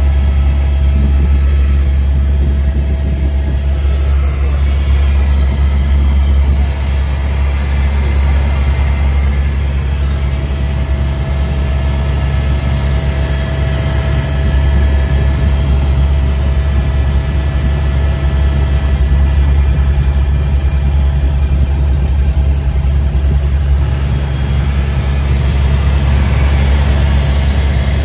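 Helicopter in flight: a loud, steady engine and rotor drone with a few fixed whining tones above it.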